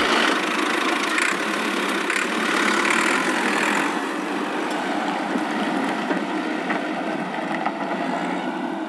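Cartoon vehicle engine sound effect running steadily as a rough, noisy rumble, easing off slightly toward the end.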